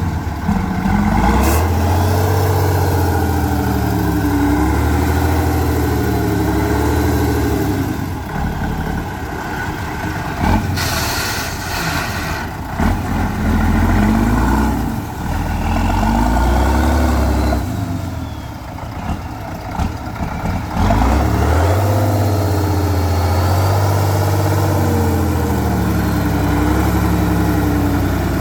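Heavy off-road trial truck's diesel engine revving up and down as it works through the course, its pitch rising and falling repeatedly. A short hiss comes about 11 seconds in.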